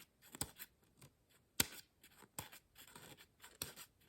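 Short, separate scraping strokes across the edge of a single-bevel steel broadhead, about one or two a second, checking for a burr after the 600-grit diamond plate; the strokes catch on the burr that has stood up along the edge.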